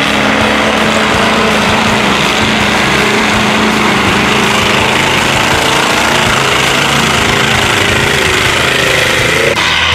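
Old Jeep's engine running hard at high revs, steady and rough, as its tyres spin and churn through deep mud.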